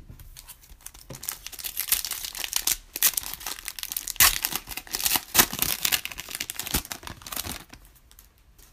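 Wrapper of a Panini Prizm basketball card pack being torn open and crinkled in the hands: a dense crackling that builds about a second in and thins out near the end.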